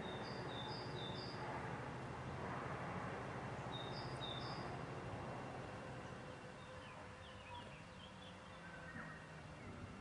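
Forest ambience: a steady background hiss and low hum, with a bird giving a short two-note call three times in quick succession at the start and twice more about four seconds in, then a few faint quick chirps near the end.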